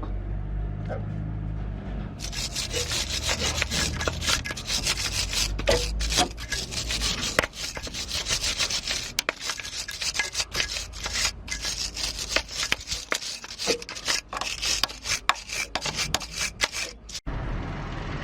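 Electric arc welding on a broken bolt: a dense, irregular crackle that starts suddenly a couple of seconds in and cuts off abruptly near the end, as the arc is struck and then broken.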